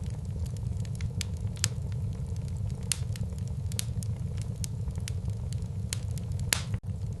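Wood fire burning in a fireplace: a steady low rumble of the flames with frequent sharp, irregular crackles and pops, one louder pop near the end.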